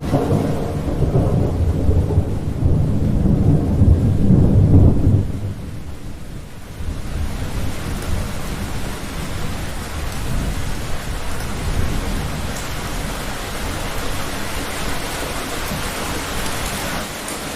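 Thunder rolling in a long deep rumble that starts suddenly and fades after about five seconds, over steady heavy rain that continues on its own afterwards.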